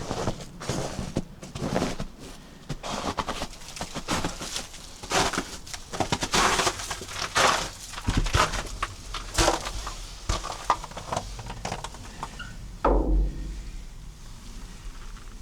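Footsteps crunching on compacted snow at a steady walking pace. A brief low thump comes near the end, and the steps then thin out.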